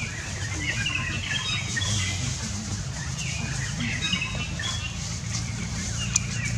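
Small birds chirping, with many short scattered calls, over a low steady hum.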